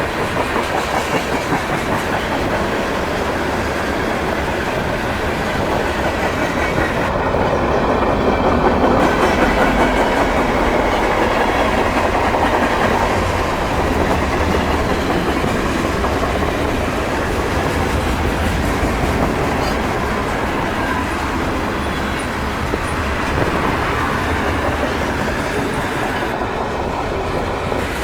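Train cars rolling past close by, a steady rumble with the wheels clacking over rail joints, slightly louder partway through.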